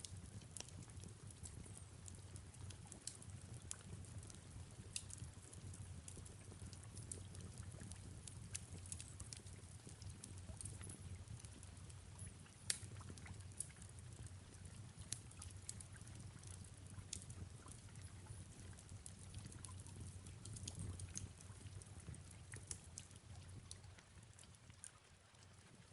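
Faint fireplace ambience: wood fire crackling with irregular small pops, one louder pop about halfway through, over a soft steady rain hiss and a low rumble.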